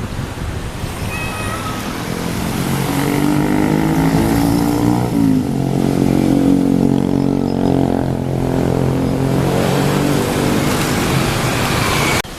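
Diesel train engine passing close by, its engine note building and then dropping in pitch about five seconds in as it goes past, and running on until it cuts off abruptly near the end.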